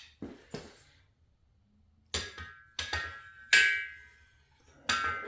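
Steel cam bearing installer bar and its pieces clanking against each other and the cam bores of an LS6 engine block as the tool is set up, a handful of sharp knocks that ring on briefly, the loudest about three and a half seconds in.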